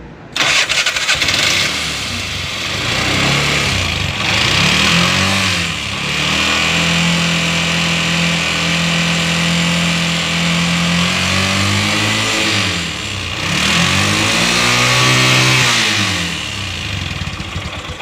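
Bajaj RE 205 auto-rickshaw four-stroke engine started up, revved several times with steady idling between, then winding down near the end. The abnormal engine noise comes about 2.5 months after a rebuild, which the mechanic traces to a fully slack timing chain.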